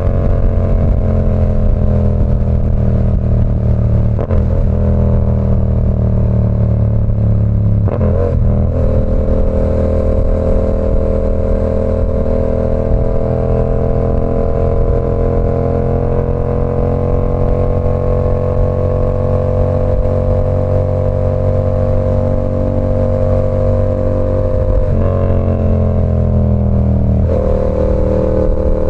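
Yamaha R7's 689 cc parallel-twin running through an SC Project CR-T exhaust under way, heard from the bike. The engine note breaks at gear changes about 4 and 8 seconds in, then holds a long, slowly rising pull, with two more gear changes near the end.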